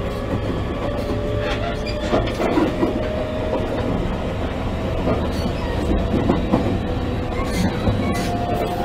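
An E653 series 1100 electric multiple unit running on the line, heard from inside its motor car: steady wheel and track rumble with rail-joint clickety-clack and occasional knocks. Under it, a faint motor whine rises slowly in pitch as the train gains speed.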